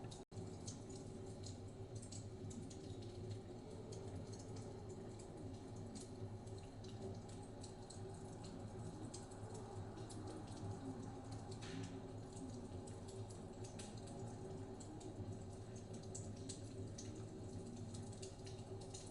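Wood fire crackling with scattered small pops and snaps, over a steady low rumble of blizzard wind.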